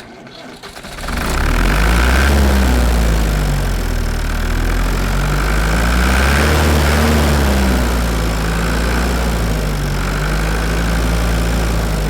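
An engine, plausibly a tractor's, starts about a second in and runs, its pitch rising and falling slowly as the revs change.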